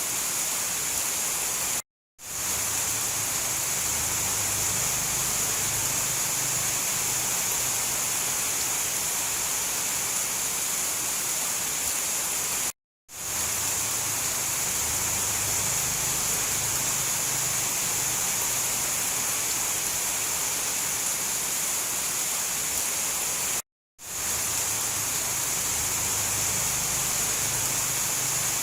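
Steady rain ambience, an even hiss with a brighter high band and a low rumble beneath. It cuts out to silence for a split second three times, about eleven seconds apart, where the loop repeats.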